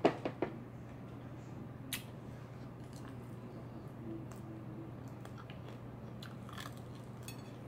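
Close-up eating of crispy fried chicken, biting and crunching: a few sharp clicks right at the start and another about two seconds in, then chewing with crisp crackles near the end, over a steady low hum.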